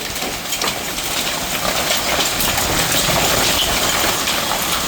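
Severe thunderstorm with heavy rain and hail pelting down amid gusty wind: a dense rushing noise full of sharp ticks of hailstones hitting. It grows louder over the first two seconds, then holds steady.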